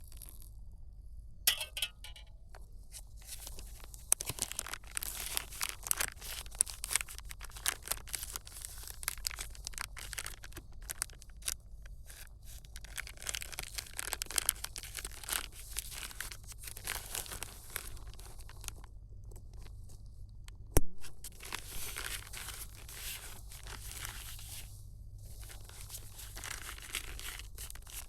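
Irregular crinkling and rustling of material being handled, a dense run of small crackles with one sharper click about two-thirds of the way through.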